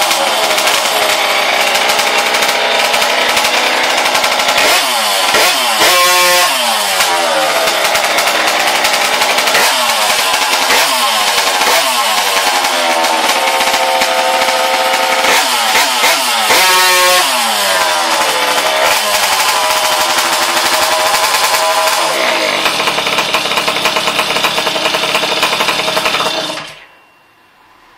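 Tomos moped's two-stroke engine, fitted with a DMP70 kit, running loud and revved up and dropped back several times. Its pitch climbs and falls in repeated sweeps, then holds steadier before cutting off abruptly near the end.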